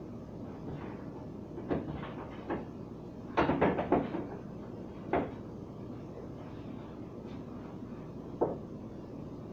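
Light knocks and clatters of containers and parts being handled and set down while a refrigerator door is emptied and cleaned. There are a few knocks about two seconds in, a quick run of several about three and a half seconds in, and single knocks near five and eight and a half seconds.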